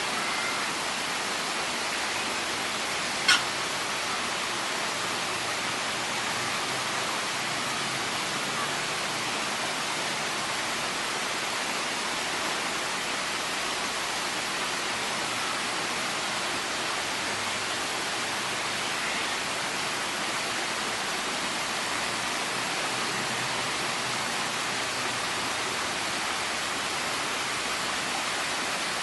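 Steady rush of falling water, an even unbroken hiss at constant level, with one short sharp click about three seconds in.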